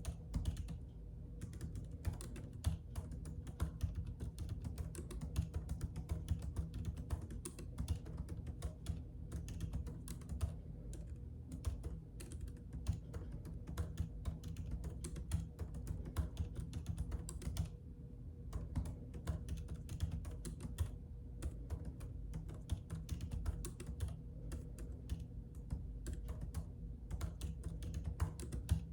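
Continuous typing on a computer keyboard: rapid key clicks with brief pauses, over a low steady hum.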